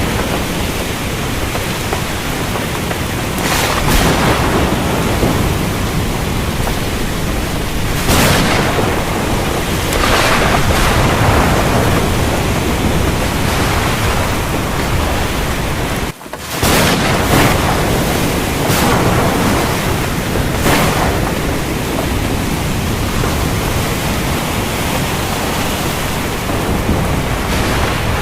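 Heavy rain falling steadily, with thunder cracks and rumbles coming through it several times. About sixteen seconds in, the sound drops out for a moment and then comes back.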